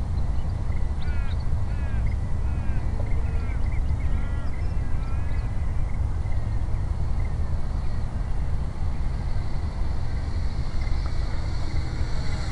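Steady low rumble of wind buffeting the microphone, under a faint steady high whine from the electric motor of the RC Hawker Hurricane model in flight. A bird calls a quick series of short chirps during the first few seconds.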